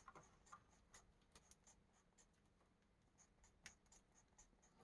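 Faint, short strokes of a coloring tool scratching on paper as small X marks are drawn, several strokes a second, one a little louder near the end.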